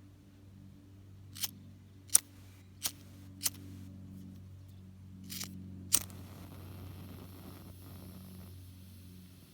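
A lighter's flint wheel being flicked, six sharp clicks over about five seconds, for lighting a black snake firework pellet. A faint steady hiss follows the last click.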